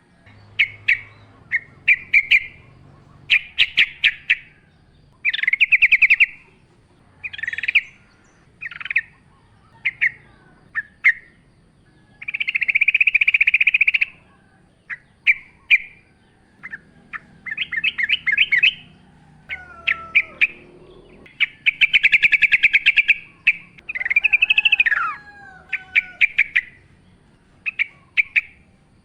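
Yellow-vented bulbul (trucukan) singing: loud bursts of fast chattering notes, some running on for a second or two, repeated every second or so, with a few lower sliding whistles mixed in.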